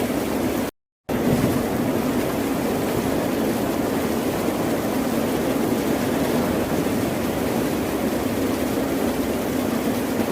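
Steady rush of ocean surf with no distinct wave breaks. It cuts out to dead silence for a split second under a second in, then carries on.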